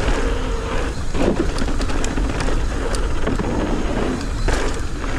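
Mountain bike rolling fast down a dirt trail: a steady rumble of tyres and wind, with frequent sharp clicks and rattles from the bike, which the rider says is making some bad noises.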